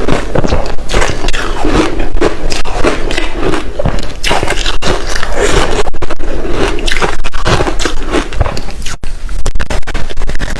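Close-miked ice chunks coated in matcha powder being bitten and chewed: loud, continuous crunching, full of sharp cracks as the ice breaks between the teeth.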